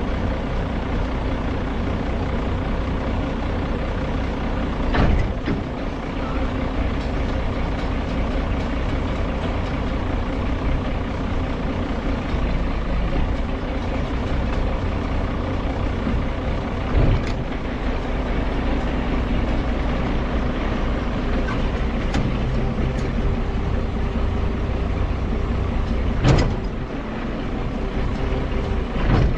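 A heavy engine running steadily, with a few short clunks over it.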